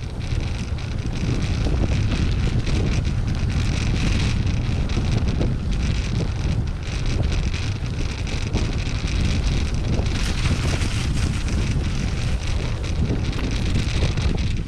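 Wind buffeting the microphone of a moving gravel bike, with the hiss and crackle of tyres rolling over a gravel surface.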